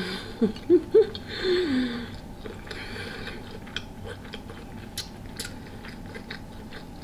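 A person eating a mouthful of food close to the microphone: a few short hummed 'mm' sounds in the first two seconds, then quieter chewing with scattered small mouth clicks.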